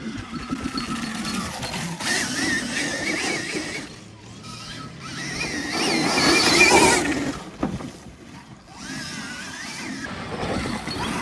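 Stark Varg electric dirt bike's motor whining, its pitch rising and falling with the throttle over rough tyre and chain noise, loudest about six to seven seconds in.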